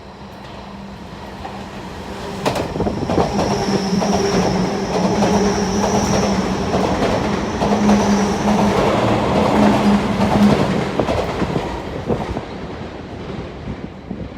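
Sotetsu limited express train passing through a station at speed without stopping: wheels clattering over the rail joints with a steady whine, building up over the first few seconds and fading away near the end.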